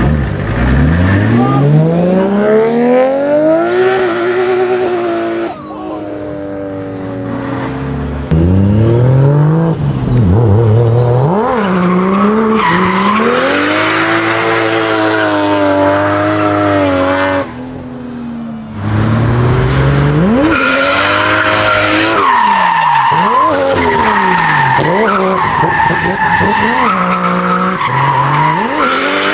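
Modified Nissan Silvia engines revving hard, their pitch sweeping up and down again and again, with tyre squeal and skidding during drifts. The sound changes abruptly several times as one run gives way to another.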